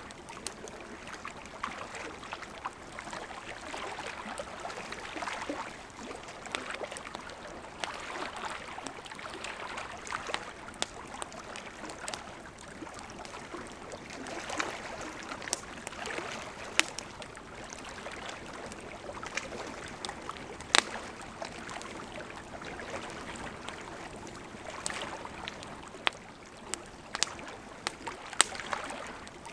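Campfire of burning wood crackling: a steady soft hiss of flames with frequent irregular sharp pops and snaps.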